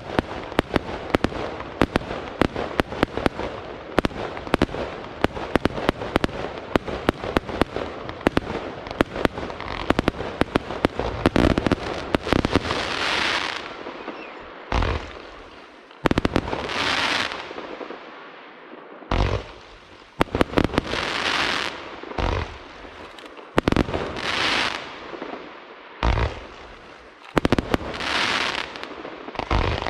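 Aerial fireworks display: for the first twelve seconds or so a dense barrage of rapid, sharp bangs, then single deep booms of shells bursting, each alternating with a noisy rush lasting about a second, roughly every two seconds.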